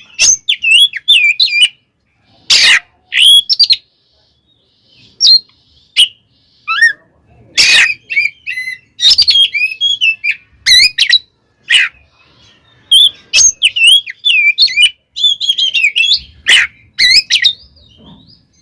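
Oriental magpie-robin (kacer) singing its aggressive fighting song in rapid bursts of whistled, chattering notes. Short harsh rasping calls come between the bursts, and there are brief pauses.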